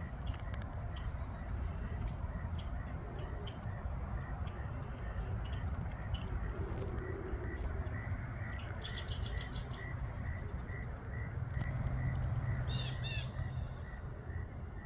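Small birds calling outdoors: a steady high note repeated about twice a second, a couple of falling whistles, a quick trill, and a short chirpy phrase near the end. All of this sits over a steady low rumble.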